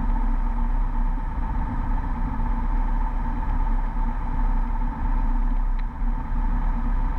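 Beechcraft Bonanza V35's piston engine idling steadily on the ground, heard inside the cockpit as a low, even drone.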